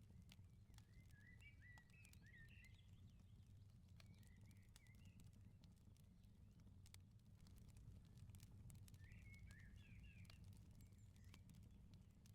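Faint outdoor wood fire crackling with scattered sharp pops over a steady low rumble, while small birds twitter in short chirping phrases about a second in, again around four seconds, and near ten seconds.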